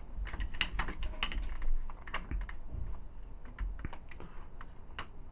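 Irregular small clicks and taps of hard plastic as the jointed parts of a Gigapower Gutter transforming robot toy are flipped and snapped into place.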